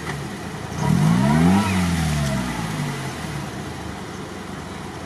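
Lada Niva's engine revving up about a second in and dropping back over the next two seconds as the driver tries to pull the stuck car forward through the mud, then running more quietly.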